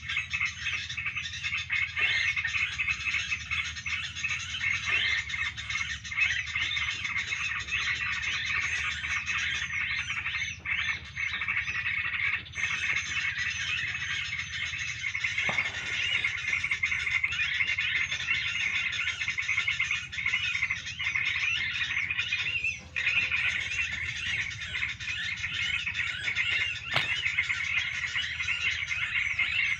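Dense, unbroken chorus of many small birds chattering and chirping over one another, with a single sharp click near the end.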